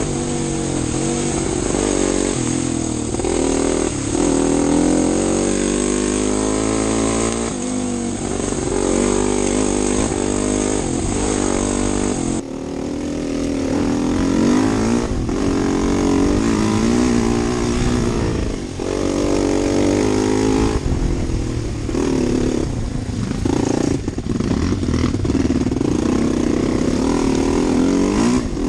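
Single-cylinder four-stroke dirt bike engine of a 2012 Husqvarna TE250 enduro bike being ridden, its revs rising and falling over and over as the throttle opens and closes.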